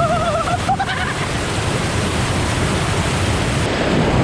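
Waterfall pouring down forcefully, a steady loud rush of water close to the microphone. A brief wavering cry is heard during the first second.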